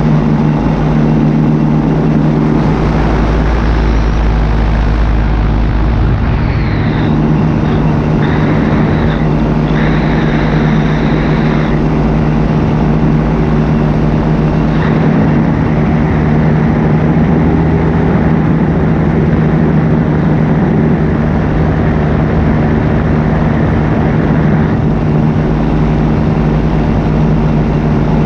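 Paramotor engine and propeller running steadily at a constant throttle in flight, a loud even drone with wind rumble on the microphone. Between about six and twelve seconds in, a higher whine comes and goes several times.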